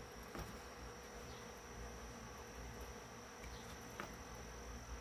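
Steady, faint, high-pitched drone of insects, with two small clicks, about half a second in and about four seconds in.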